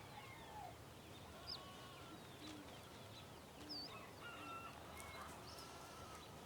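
Quiet outdoor background with faint, scattered bird calls: short chirps and a few brief held notes.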